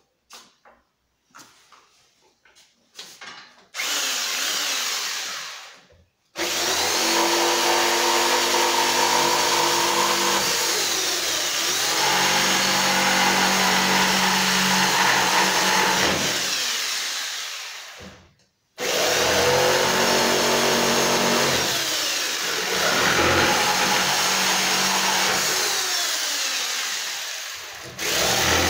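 Einhell Bavaria BPS 600E electric saw switched on and run in three loud bursts: a short one about four seconds in, a long one of about twelve seconds, then another of about nine seconds. Its pitch shifts during the runs as if cutting wood, and each run stops abruptly. A few light handling clicks come before the first start.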